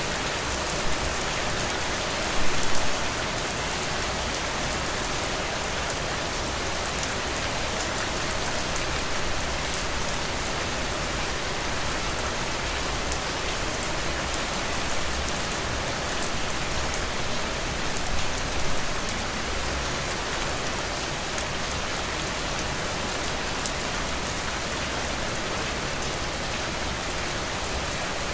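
Heavy rain falling steadily, a dense even hiss with the patter of single drops through it. A couple of brief louder splashes come about two and a half seconds in and again a little past halfway.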